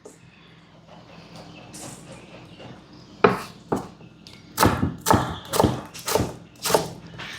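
A kitchen knife chopping potatoes into small cubes on a cutting board. After a quieter first three seconds comes a run of about eight sharp, irregular chops.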